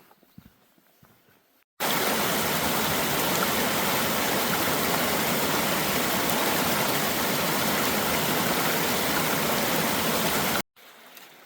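Waterfall: water rushing steadily down a rocky cascade, loud and even. It starts suddenly about two seconds in and cuts off abruptly shortly before the end.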